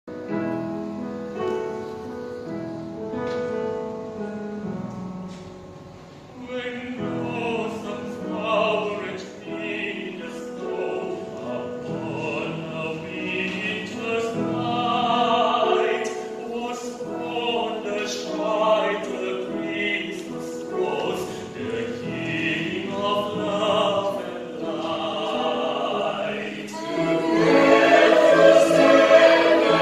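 Classical music: a short instrumental introduction of held chords, then a baritone singing with vibrato from about six seconds in, swelling louder near the end.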